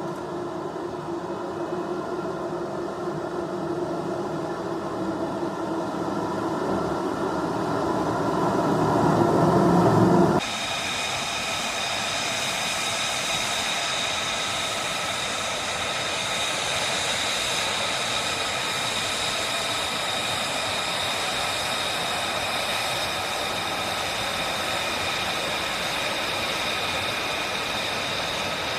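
F-35B Lightning II jet engine noise. A roar grows steadily louder for about ten seconds, then breaks off abruptly into a steady high turbine whine with several ringing tones, as of the jet idling or taxiing.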